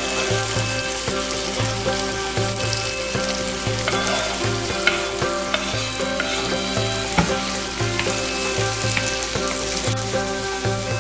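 Chopped tomatoes, green chilli and onions sizzling in hot oil in a frying pan, stirred with a wooden spatula that gives a few light scrapes and knocks. Background music with a repeating bass line plays over it.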